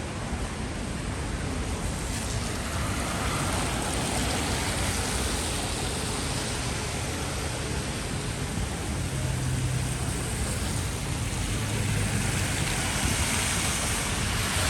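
Steady hiss of rain and traffic on a wet street, with a vehicle's low hum growing stronger about nine to thirteen seconds in.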